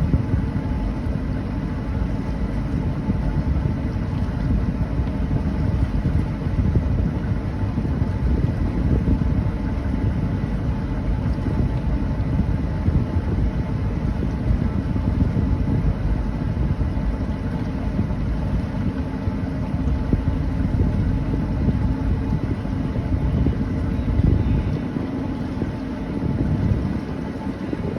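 A 26-foot Rendezvous boat's engine runs steadily at cruising speed, with wind rumbling on the microphone. The low rumble eases briefly near the end.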